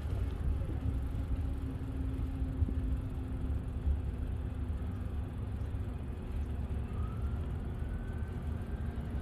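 Steady low rumble of wind on the microphone on a moving bicycle, with a faint steady hum over the first six seconds and a faint rising, then falling, whine near the end.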